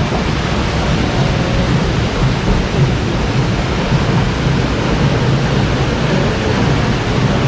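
Steady loud rushing of churning water around a round river-rapids raft, with a low rumble underneath.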